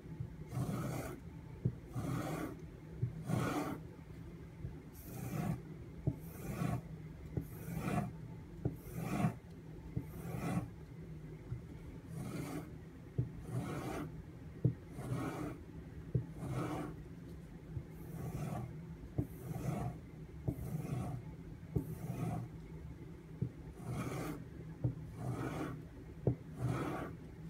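AUS-8 steel tanto blade being stropped on a homemade wood-backed leather strop loaded with white compound: even back-and-forth swishing strokes, a little more than one a second, with occasional sharp ticks between them.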